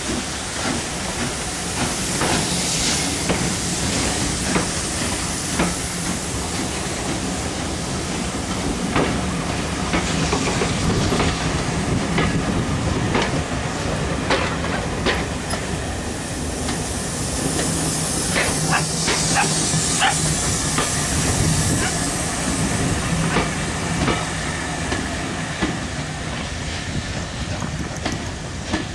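Passenger coaches of a steam-hauled train rolling past, their wheels clicking irregularly over the rail joints, over a steady hiss of steam.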